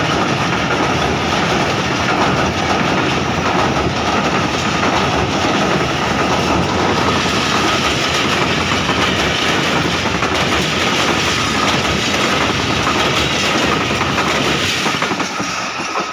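Passenger train coaches rolling past close by, wheels clattering over the rail joints in a steady loud rush. The noise falls away near the end as the last coach passes and the train moves off.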